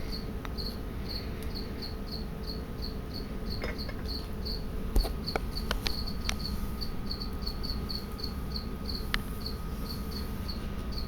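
A cricket chirping steadily, a short high chirp repeated about two to three times a second, with a few faint clicks.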